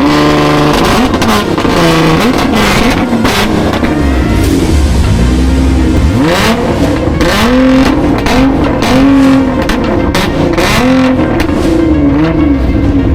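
Performance car engine revving hard in repeated blips, its pitch climbing and dropping many times over, as a car pulls away from the show.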